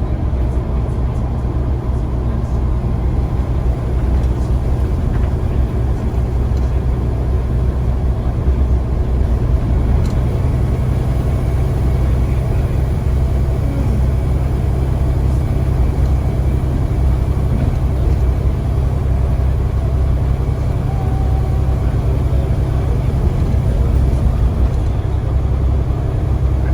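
Scania CN94UA OmniCity single-deck bus under way, a steady low engine and road rumble that holds even throughout.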